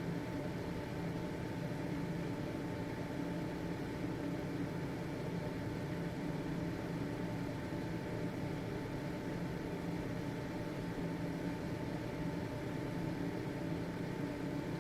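Household ventilation fan running steadily: an even motor hum with a faint high whine over the rush of air.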